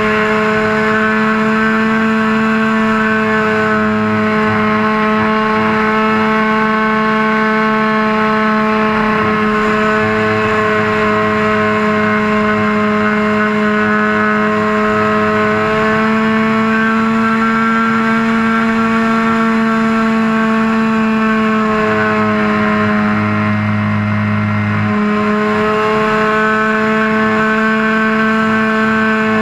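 RC airplane's motor running steadily in flight, heard close up from the wing, its pitch rising a little midway and dipping briefly near the end before coming back up.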